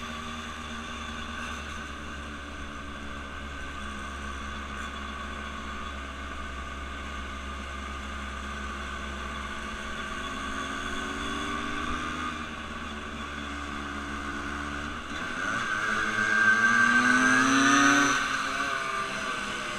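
A motor vehicle's engine runs steadily. About fifteen seconds in, an engine revs up with a rising pitch and grows loud, then falls away near the end.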